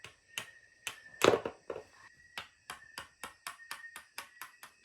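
Small plastic hammer tapping the plastic ice blocks of a Penguin Trap game, a run of sharp taps that speed up from about two a second to about six a second.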